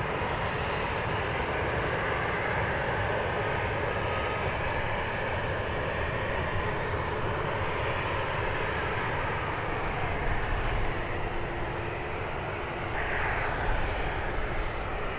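Boeing 737 jet engines at takeoff power during the takeoff run, a steady, even wash of jet noise.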